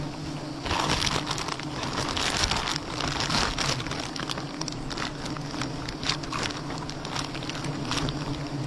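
Honeybees buzzing in a steady hum, with dense crackling and rustling starting about a second in and going on in irregular bursts.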